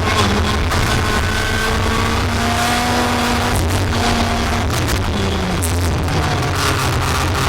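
A racing vehicle running at speed, recorded on board. It makes a loud, steady drone over a heavy low rumble, with several held tones that shift up and down in pitch as the speed changes.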